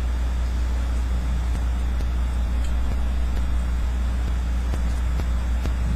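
Steady low rumble with a faint hiss.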